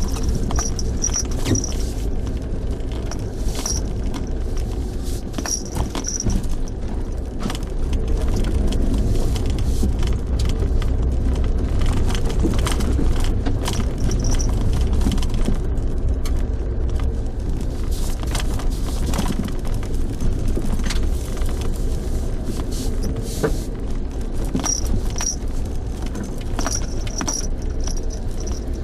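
Car driving on a rough road, heard from inside, with a steady low rumble and frequent small rattles and clicks.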